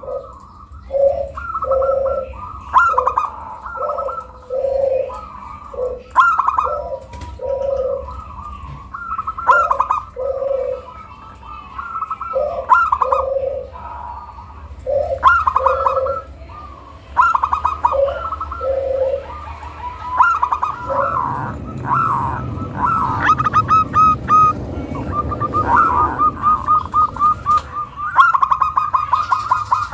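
Zebra dove (perkutut) singing its cooing song over and over: quick stuttering high notes followed by lower, rounder coos. A low rumbling background noise joins about two-thirds of the way in.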